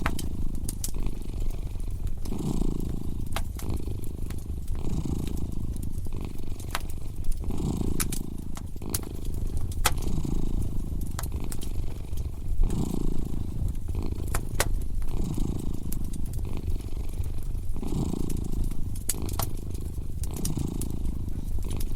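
A cat purring steadily, swelling with each breath about every two and a half seconds, over the sharp, scattered pops and crackles of a wood fire.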